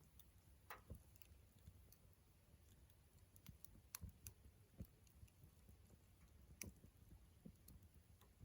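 Wood campfire crackling faintly, with small snaps and pops at irregular intervals.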